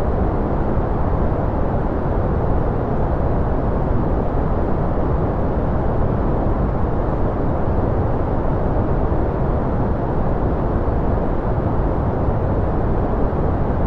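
Steady white-noise track: a deep, even rushing hiss with little treble, unchanging.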